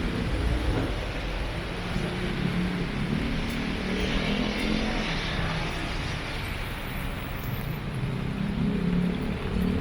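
A motor vehicle engine running under a steady haze of rain and street noise, with a hiss that swells in the middle.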